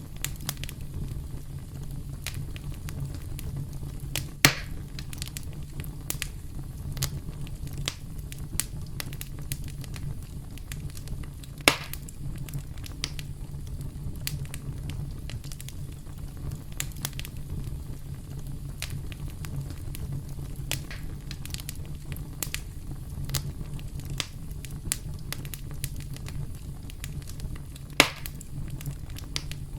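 Campfire crackling: frequent small snaps and pops over a steady low rumble. Three louder pops stand out, about four seconds in, about twelve seconds in, and near the end.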